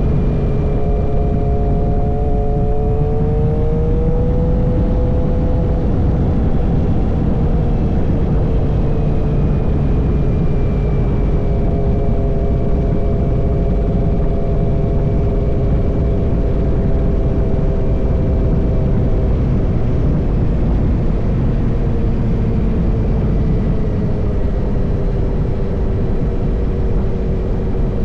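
Suzuki GSX-R motorcycle with an M4 full-system exhaust running at a fairly steady engine speed, its note rising slightly a few seconds in and easing down near the end, over a heavy low rumble.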